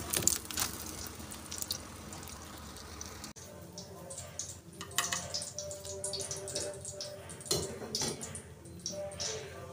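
Egg omelette sizzling in hot oil while a spatula scrapes under it and lifts it from the pan. After a sudden cut about three seconds in, scattered crackles and drips go on as the freshly fried omelette sits on the plate.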